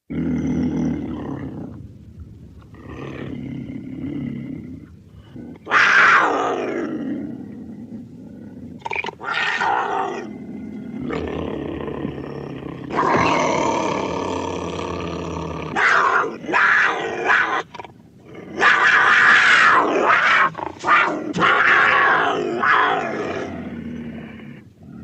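A string of custom animal-like creature sound effects that starts abruptly out of silence: several long calls with short gaps between them, some sliding down in pitch.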